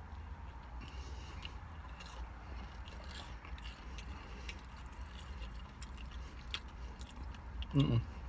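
A person chewing food with faint wet mouth clicks, over a steady low hum. Near the end comes one short hummed "mm".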